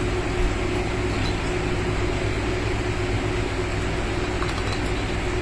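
Steady mechanical hum with a faint steady tone, even throughout.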